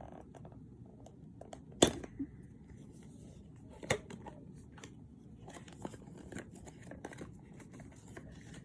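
Hands working at the packaging of a small car aroma diffuser box, trying to get it out: rustling, scraping and small clicks, with a sharp knock about two seconds in and another about four seconds in.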